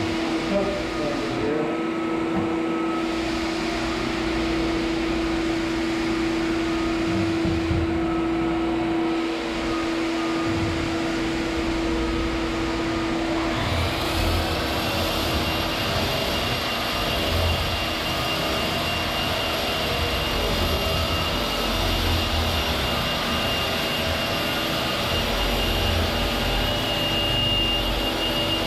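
Electric power sander running steadily with 80-grit paper on an old hardwood floor. About halfway through the sound changes: the low hum drops away and a high steady whine and more hiss take over.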